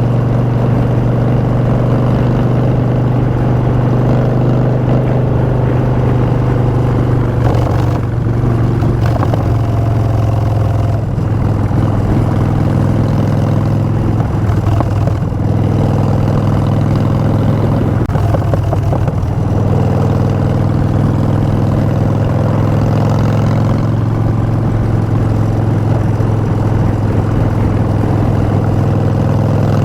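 Harley-Davidson Street Bob's V-twin running through Vance & Hines Short Shots exhaust while riding at a steady pace, with a deep, even note. The note briefly breaks and shifts pitch a few times, about a third and halfway through.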